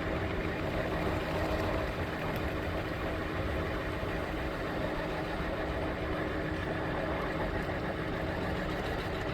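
Bird electric scooter riding along, its running gear giving a steady rough rumble with a faint steady hum. The rider likens this rumble to a diesel truck and takes it for a sign that the scooter has a problem, since these scooters don't usually sound like this.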